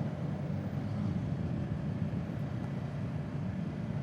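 Steady riding noise from a Kawasaki Z650 motorcycle on the move: wind rush over the rider's microphone with the parallel-twin engine running underneath at a steady speed.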